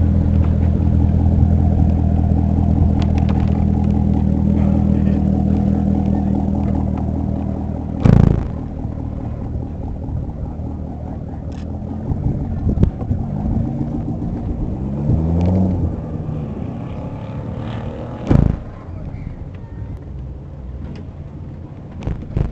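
Car engine running with a deep steady rumble that eases off after about seven seconds, with an engine pitch that briefly rises and falls near the middle. Two sharp knocks, one about eight seconds in and one near the end, are the loudest sounds.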